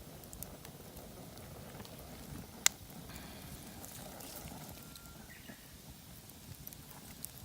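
Campfire of undried firewood burning poorly, with scattered soft crackles and one sharp, loud pop a little under three seconds in.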